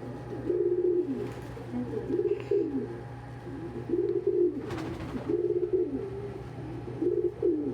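Domestic pigeons cooing, low rolling coos repeated about once a second, with a brief rustle about five seconds in.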